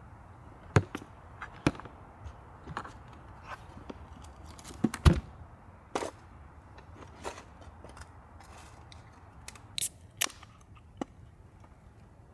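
Campfire of dry branches crackling: irregular sharp pops and snaps over a low steady rush, the loudest pop about five seconds in.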